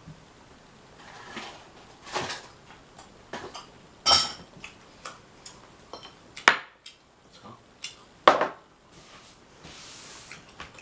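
Dishes and utensils being handled on a table: scattered light clicks and knocks, with three louder clinks about four, six and a half and eight seconds in. The first of these rings briefly. A soft hiss follows near the end.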